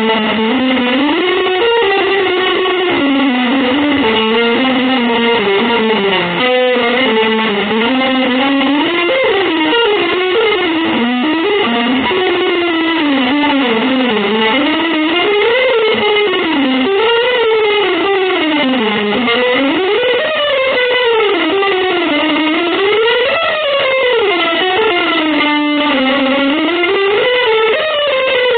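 Electric guitar playing an unbroken improvised line through effects. Its pitch sweeps up and down in wide, continuous glides rather than separate notes, breaking off briefly twice.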